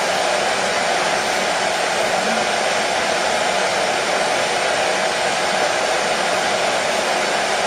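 Hair dryer running steadily, a constant whooshing rush of fan and airflow with a strong midrange hum, used as white noise to soothe a colicky baby to sleep.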